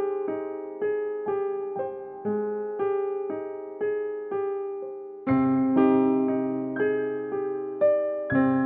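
Background music: a solo piano, possibly electric piano, playing a gentle melody of notes about every half second, with a deeper bass note coming in about five seconds in.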